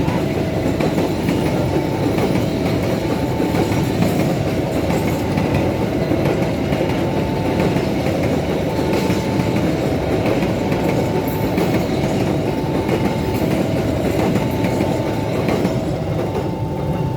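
A train passing over a level crossing, its wheels clattering steadily over the rails, while the crossing's warning alarm sounds two alternating tones, low then high, over and over.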